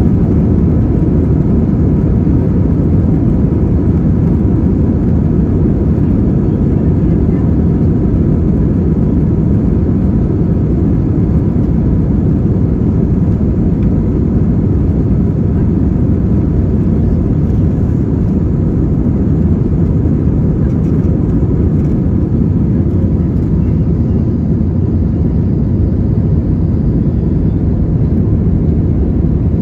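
Steady roar of engine and airflow noise heard inside the cabin of an Airbus A320-200, deep and unchanging, with a faint steady whine above it.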